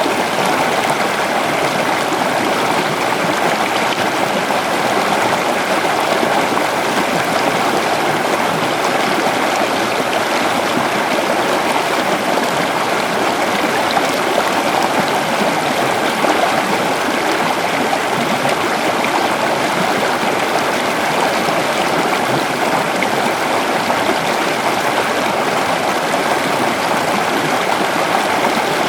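A river running over rocks: a steady, even rush of flowing water.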